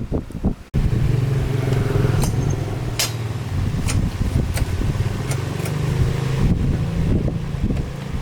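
A motor running with a steady low hum, with a few sharp clicks over it; the hum starts abruptly just under a second in.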